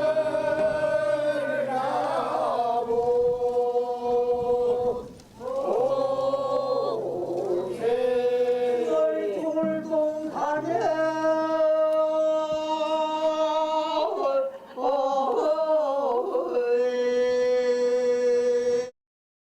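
Korean traditional field song (deulsori) sung in long held notes that slide and bend at their ends, with brief breaks for breath. The singing cuts off abruptly near the end.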